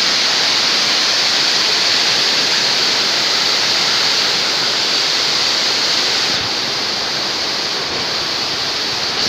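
Strong gusting wind rushing steadily, easing slightly about six seconds in.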